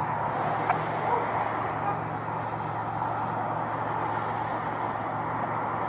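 Steady vehicle and road noise, a continuous rumble with a low hum and no clear events.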